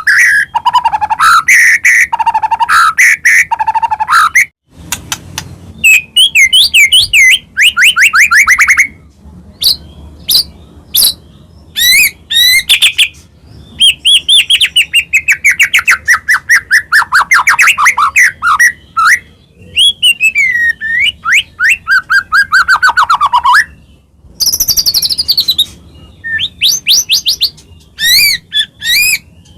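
White-rumped shama singing in full, loud song: a fast, varied run of phrases made of rapid repeated trill notes, sliding whistles that fall in pitch, and sharp high notes, broken by brief pauses.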